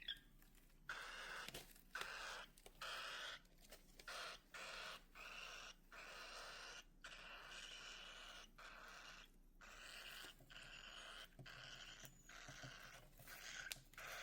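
Baby cockatiels making raspy, hissing calls in a run of short bursts with brief gaps.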